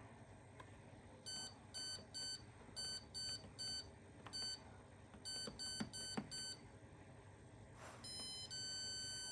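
Tumble dryer control panel beeping: about a dozen short electronic beeps in irregular groups, with faint clicks of the program dial, then one longer beep at a different pitch near the end. The dryer is showing error code E21 and refuses to start a program.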